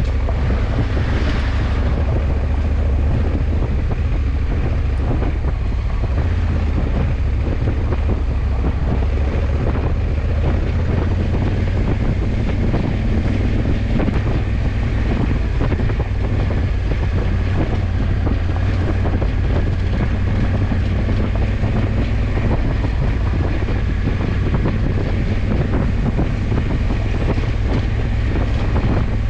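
Wind buffeting the camera microphone on a moving motorcycle, a 2020 Honda CRF1100L Africa Twin, with a steady low rumble of engine and road noise beneath it.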